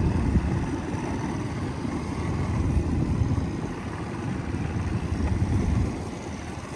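Heavy wind buffeting the microphone: a loud, uneven low rumble with no steady engine note, starting and stopping abruptly.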